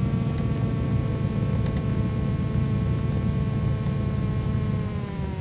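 Twin engines and propellers of a Cessna 310Q running at low power after touchdown: a steady drone whose tones slowly fall in pitch, dipping further and a little quieter near the end as the airplane slows on the landing rollout.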